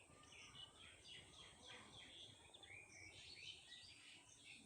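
Faint birdsong: several quick chirps and warbling phrases overlapping throughout, with a thin steady high tone underneath.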